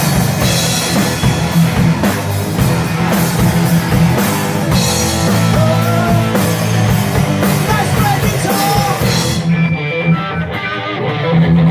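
Live rock band playing, with electric guitar and drum kit. About nine and a half seconds in, the drums and cymbals drop out, leaving the guitar playing on its own.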